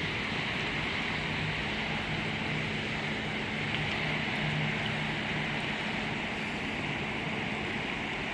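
A fast, high river rushing: a steady, even roar of water with no let-up, under a faint low hum.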